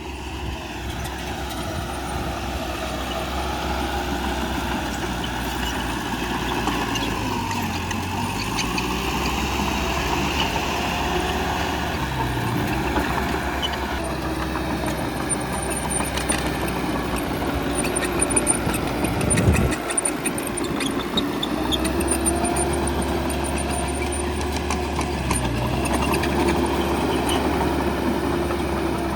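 Bulldozer's diesel engine running under changing load, its pitch rising and falling as it pushes. A heavy thump comes about two-thirds of the way through.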